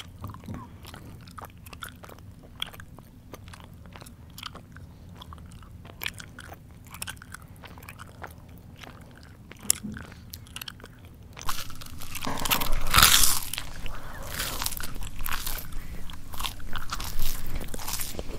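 Close-up chewing of crunchy food, with mouth clicks and smacks. It is soft and sparse at first; about eleven seconds in it turns into louder, denser crunching bites.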